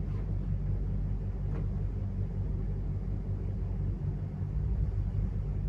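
Steady low background hum.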